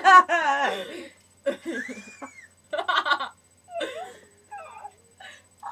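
Girls laughing: a loud burst right at the start that dies away within about a second, then scattered short giggles and breaths with pauses between them.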